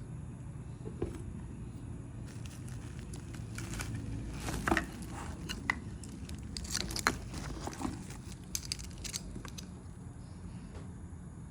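Packaging being handled: crinkling and rustling with scattered light clicks and knocks through the middle, over a low steady hum.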